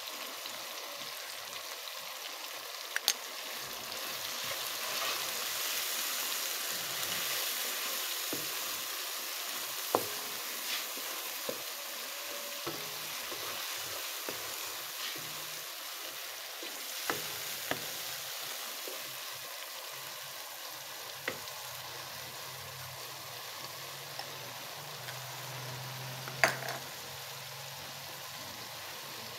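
Onion-tomato masala sizzling in hot oil in a nonstick wok as a wooden spatula stirs it, with a steady hiss and a few sharp knocks of the spatula against the pan, the loudest near the end. The masala is being fried down with turmeric, chilli and salt.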